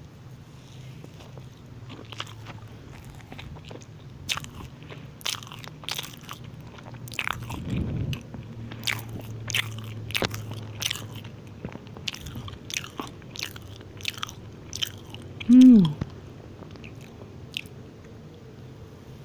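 Close-miked chewing of a soft cranberry muffin, with many sharp wet mouth clicks and smacks. About three-quarters of the way through comes a short hummed 'mm' that falls in pitch, the loudest sound.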